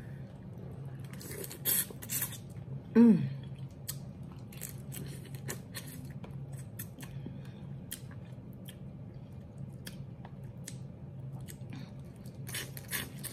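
Close-miked eating of crab meat: wet chewing, lip smacks and small crackles, with a short falling "mm" hum of the voice about three seconds in, over a steady low hum.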